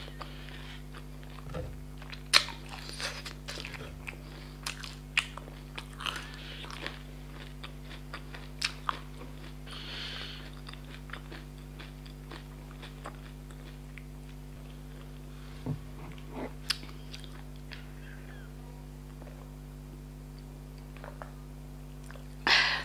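Close-miked eating sounds of a person chewing with wet lip smacks and sharp mouth clicks, busiest in the first half and sparser later, over a steady low hum. Near the end comes a louder short sound as she sips from a glass of cola.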